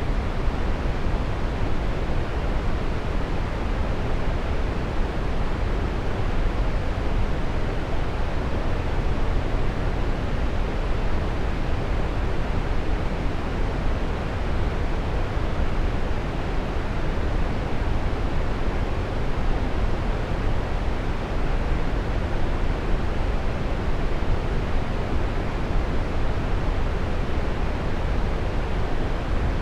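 Waterfall: a steady, even rush of falling water, strongest in the low end and dull at the top.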